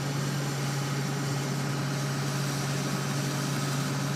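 A mobile crane's engine running steadily with an even, low drone while it lifts a stranded sailboat in slings.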